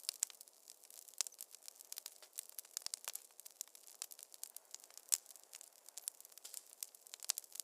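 Wood fire crackling: a dense, irregular run of sharp pops and snaps over a faint hiss.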